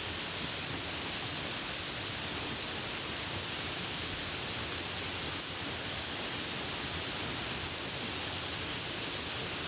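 Steady rain falling, an even hiss with no thunder and no single drops standing out.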